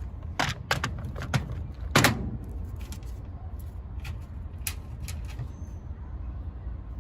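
A run of sharp clicks and knocks of tools and metal parts being handled, the loudest about two seconds in, over a steady low rumble.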